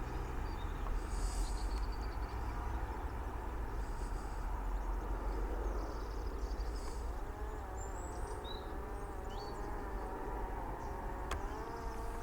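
Parrot Disco fixed-wing drone's electric motor and propeller droning as it flies past, its pitch wavering up and down through the second half. A low wind rumble on the microphone runs underneath.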